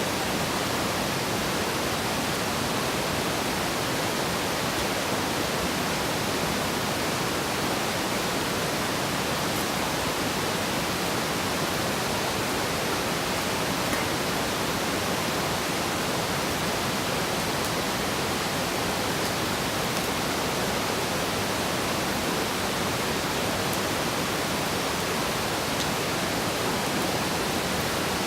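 Steady, even rushing noise that spreads across all pitches and stays at the same level throughout, with no breaks.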